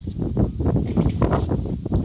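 Wind buffeting the microphone: an uneven low rumble broken by many short crackles.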